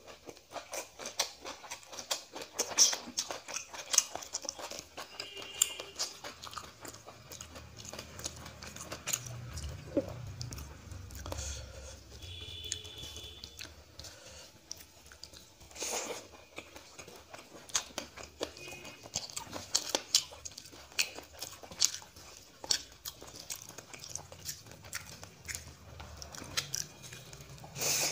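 Close-up sound of a person chewing mouthfuls of rice with fish and greens, eaten by hand, with crunching and many small wet clicks of the mouth throughout.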